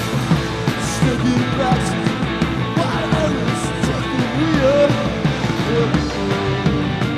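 Live rock band playing a loud, mostly instrumental passage: drums with evenly spaced cymbal strokes under a dense bed of amplified instruments, with several notes bending up and down in pitch.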